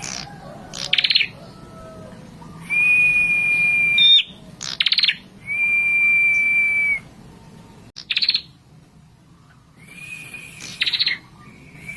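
A prenjak kepala merah singing: long, steady, high whistles of about a second and a half each, alternating with short, fast, rattling trills.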